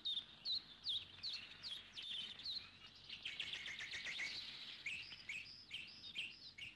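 Small birds chirping: short, high, falling notes repeated a few times a second, with a burst of denser twittering in the middle.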